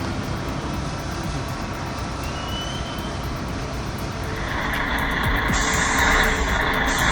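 A heavy vehicle's engine running, growing louder about four seconds in.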